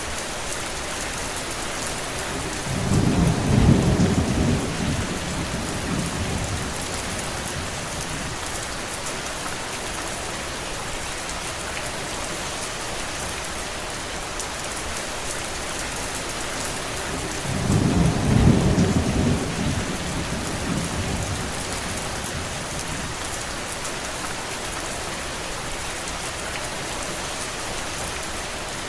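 Steady rain falling, with two low rolls of thunder, one about three seconds in and another about eighteen seconds in, each rumbling for a few seconds before fading back into the rain.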